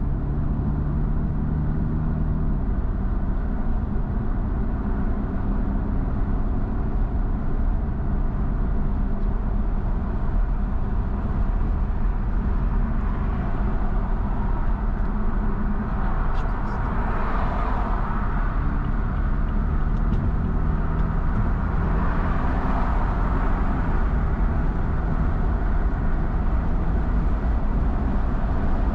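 Steady road noise of a car driving at highway speed: tyre roar and low engine hum, swelling briefly twice in the second half.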